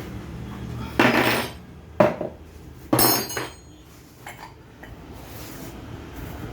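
Metal hand tools clanking against turbocharger parts: three sharp metallic clanks about a second apart, then a few faint clicks.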